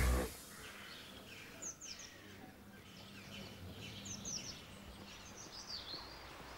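Background music cuts off at the very start, leaving quiet outdoor ambience with small birds chirping: short, high, falling calls in small clusters a few times.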